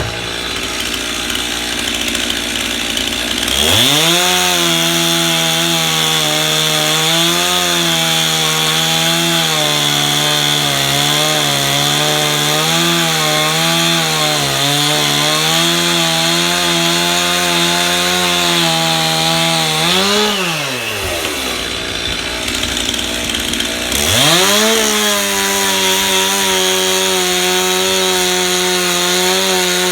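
Stihl MS 291 two-stroke chainsaw idling, then revving up about three and a half seconds in to cut limb firewood, its engine pitch wavering under load. It drops back to idle about twenty seconds in and revs up again for another cut about twenty-four seconds in.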